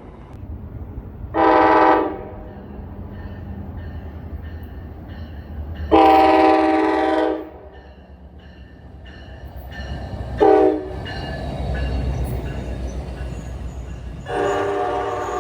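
NJ Transit train's multi-chime horn sounding four times: a short blast about a second in, a longer one around six seconds, a brief toot near ten seconds, and a long blast near the end. A low, steady train rumble runs underneath and swells between the blasts as the train draws near.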